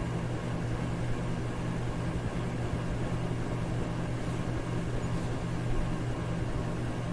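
Electric fan running steadily: a constant rush of moving air over a low motor hum, with no change in speed.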